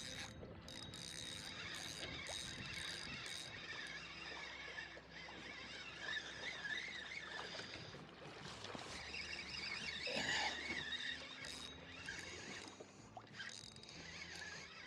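Electric motor of an Old Town Autopilot 120 kayak running steadily while trolling, a low hum, with brief higher warbling sounds about six and ten seconds in.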